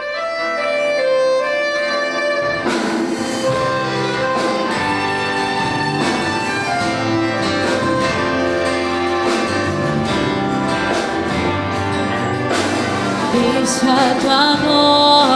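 Instrumental opening of a Brazilian gospel worship song played by a live church band: sustained chords at first, with drums and the full band coming in after about two and a half seconds. A voice starts singing near the end.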